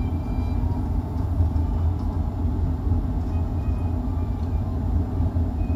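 Steady running rumble inside a 25G passenger coach as the train rolls over the rails, heavy and low with no sharp knocks.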